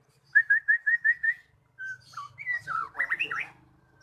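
White-rumped shama (murai batu) singing: a quick run of about seven short rising whistled notes, then after a short pause a string of varied whistles and sliding notes.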